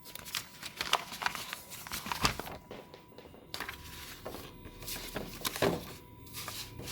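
Sheets of paper being handled and shuffled, giving irregular rustles and light clicks.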